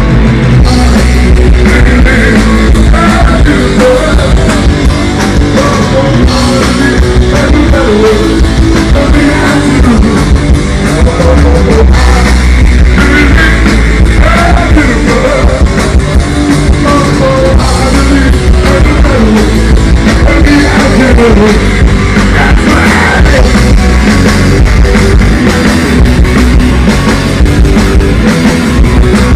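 Rock band playing live and loud, with electric guitar, bass and drum kit, and a bending melodic line over the top.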